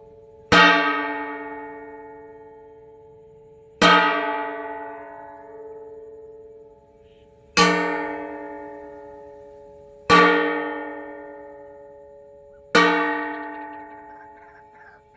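Metal cooking pot struck five times, about every three seconds, as a bird scarer. Each hit clangs and then rings on with several steady tones that fade over a few seconds.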